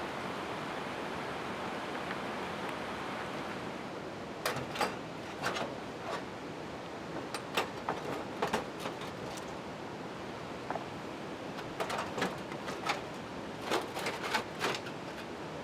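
Steady rain. From about four seconds in, irregular sharp pops and taps come through it.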